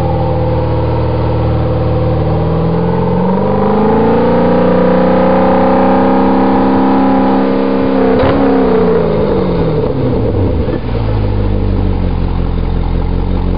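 2007 Chevrolet Corvette's LS3 V8 running through aftermarket electronically controlled dual mufflers. It idles, is revved up about three seconds in, holds at higher RPM for about four seconds, then drops back to idle.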